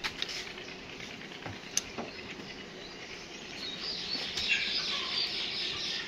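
Small birds chirping, a thick burst of high chatter building up in the second half. A few light knocks come in the first two seconds.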